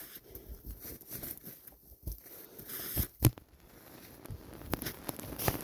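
Irregular crunching and crinkling, with two sharp knocks about three seconds in, a third of a second apart.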